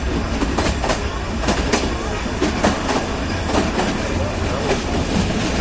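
Nilgiri Mountain Railway train running, its wheels clattering over the rail joints with a steady low rumble underneath.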